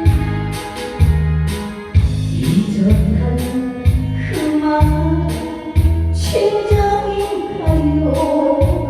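A woman singing a trot song over a backing track with a steady thumping beat about once a second; the voice comes in a couple of seconds in.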